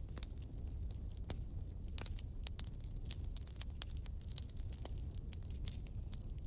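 Campfire crackling: irregular sharp pops and snaps from the burning wood over a steady low rumble of flame.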